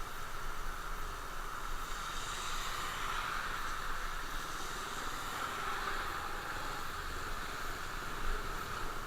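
Motorcycle on the move: the engine's steady drone blended with the rush of wind across the microphone.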